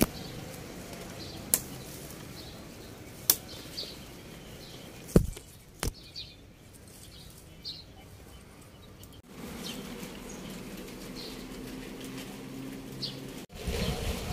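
Small birds chirping now and then over a steady low hum, with a few sharp clicks in the first six seconds.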